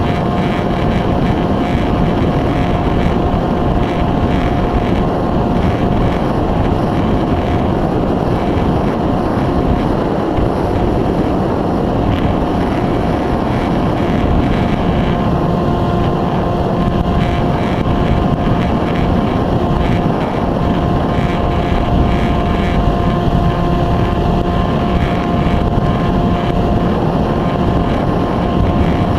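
Electric motor and propeller of an EasyStar 2 RC foam plane running steadily with a high whine. Heavy wind rushes over the onboard camera's microphone.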